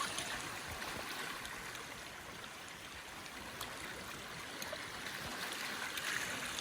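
Sea washing over rocks: a steady hiss of surf that swells a little near the end, with a few faint clicks.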